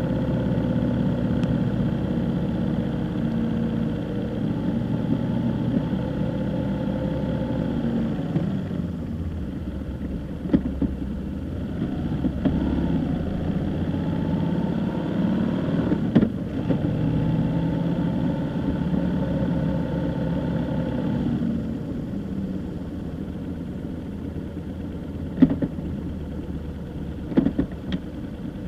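Car engine running while driving, its tone sliding slowly down and then up again as the speed changes. It quietens after about three quarters of the way through, with a few short sharp knocks scattered through.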